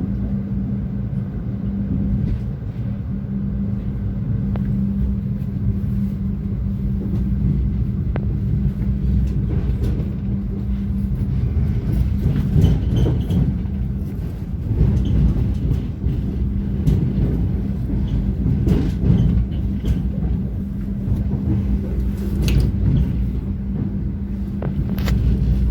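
Passenger train running along the track: a steady low rumble with a constant hum and scattered clicks.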